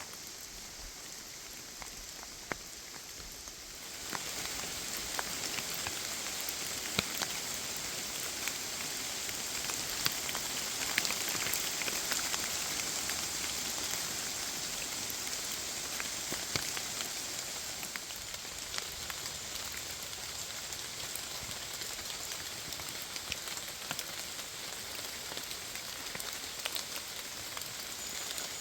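Rain falling in a forest: a steady hiss of rain with many separate drops ticking. It gets heavier about four seconds in.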